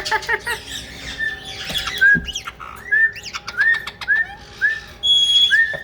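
Caique parrots calling: a run of short, repeated chirps, with a few sharp high whistles near the end. Scattered clicks and a knock about two seconds in.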